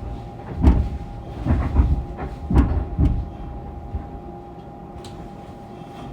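Fukuoka City Subway 2000 series train slowing for a station. The wheels knock sharply five or six times in the first three seconds as they pass over rail joints or points, over a steady whine from the train's Hitachi GTO-VVVF inverter. After that the running settles to a quieter steady rumble.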